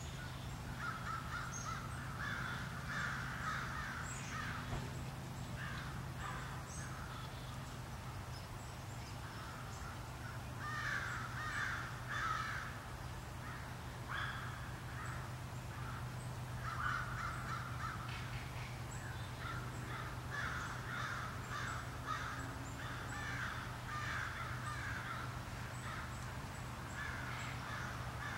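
Birds calling in repeated runs of short, rough calls that come and go throughout, over a steady low hum.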